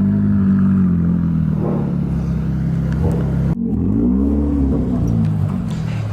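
Car engine running steadily at low revs, then revved up and back down once about four seconds in.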